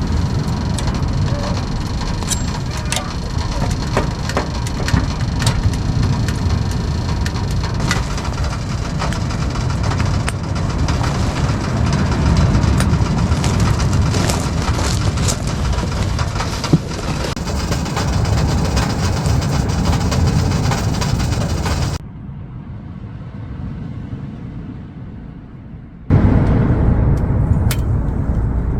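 Birch firewood crackling and popping in a wood-burning stove, sharp irregular snaps over a steady low rushing. Near the end the sound drops abruptly to a muffled, quieter rush for a few seconds, then a loud low rush returns.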